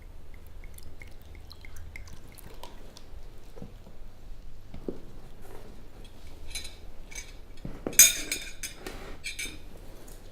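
Scattered small clicks and knocks of objects being handled, with a louder clatter of several quick strokes about eight seconds in.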